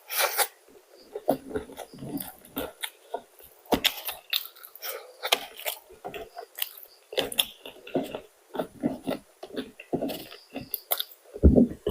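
A person chewing and biting crunchy fried food, McDonald's fried chicken and fries, close to the microphone: irregular crunches and chews, with a louder bump near the end.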